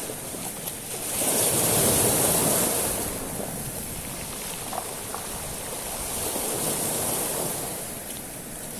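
Sea waves washing up and draining back over a beach of small pebbles, with small stones clicking. A larger wave surges about a second in and fades; a smaller one follows about two-thirds of the way through.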